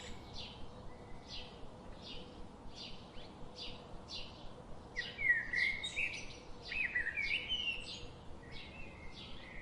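Small birds chirping over and over, short high chirps about twice a second, with a few longer sliding calls in the middle.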